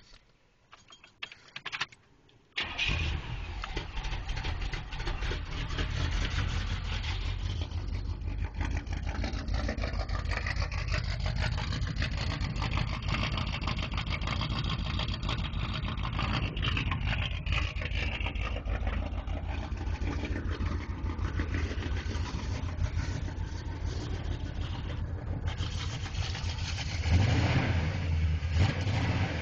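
Small-block Chevrolet 350 V8 with headers, an X-pipe and glass-pack mufflers fires up about three seconds in and settles into a steady idle through its dual exhaust. It grows louder in the low end near the end.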